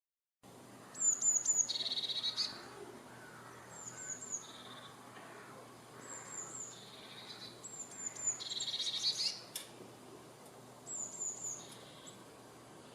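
A small songbird singing the same short phrase over and over, about every two to three seconds: three or four quick high notes, then a lower buzzy trill.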